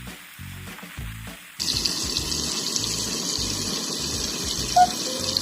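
Background music with a steady beat. About a second and a half in, a steady sizzling hiss with fine crackles starts suddenly: chicken pieces frying in a pan. A short ping comes near the end.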